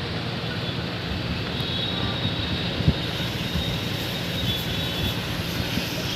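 Electric buffing machine running steadily with a thin high whine as it polishes a car headlight lens, with one sharp knock about three seconds in.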